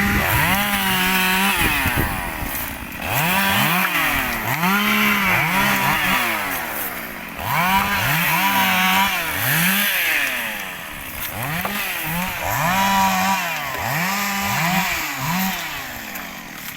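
Chainsaw cutting acacia logs, its engine revving up and dropping back over and over, roughly once a second.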